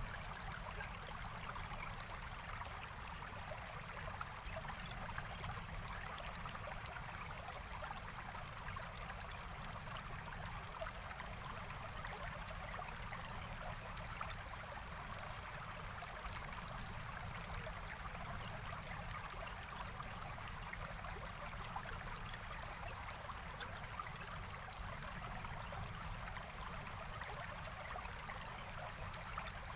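Forest stream flowing steadily, a continuous babbling rush of water.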